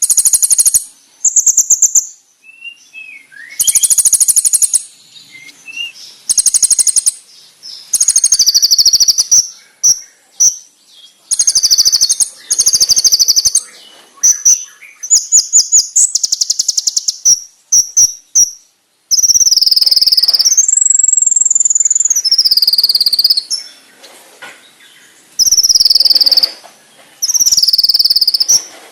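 Kolibri ninja (brown-throated sunbird) singing a loud, high masteran song: bouts of very fast, sharp trills and buzzy chattering phrases, some cricket-like, broken by short pauses. A long drawn-out high note comes a little past the middle.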